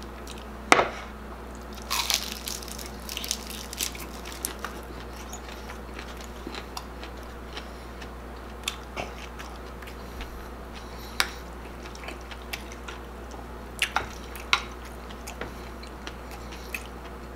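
Close-up eating of chicharon bulaklak, crispy deep-fried pork mesentery: a sharp crunch about a second in and a run of crisp crackling bites a couple of seconds later, then quieter chewing with scattered single clicks.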